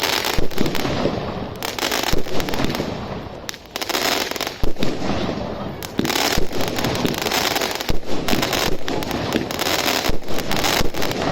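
A 25-shot, 25 mm bore firework cake firing shot after shot in quick succession: sharp launch bangs and bursts over a continuous crackling hiss from the effects.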